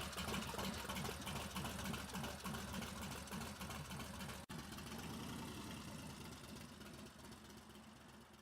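An engine idling with an even, pulsing rhythm, growing steadily fainter and nearly gone by the end.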